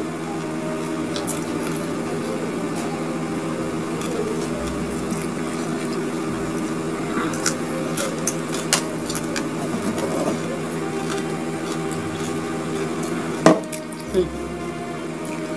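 Mouth sounds of chewing crispy fried grasshoppers, with a few sharp crunchy clicks a little after halfway and a louder click near the end, over a steady low hum.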